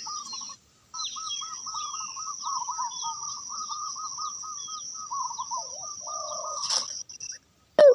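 Doves calling in a rapid run of repeated soft notes, dropping lower for a moment near the end. Small birds chirp over a steady high whine. The sound cuts out briefly just after the start and again just before the end.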